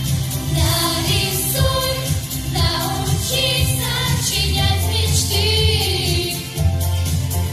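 Children's vocal trio singing a song over an instrumental accompaniment.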